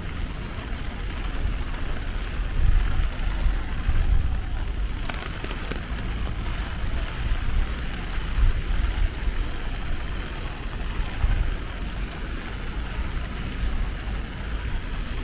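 Steady rain hiss over a low, uneven rumble, with a brief clatter about five seconds in.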